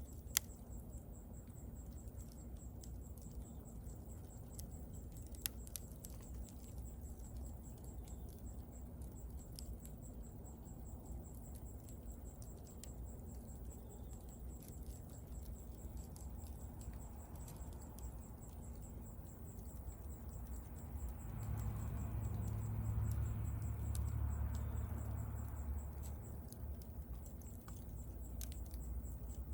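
Wood fire crackling, with scattered small ticks and two sharper pops, one right at the start and one about five seconds in. A low rumble swells for a few seconds about two-thirds of the way through, then fades.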